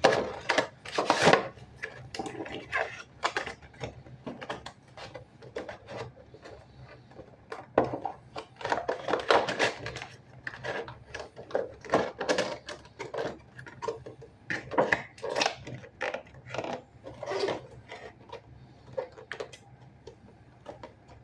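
A doll's cardboard box being handled: irregular knocks, taps, scrapes and rustles in uneven clusters.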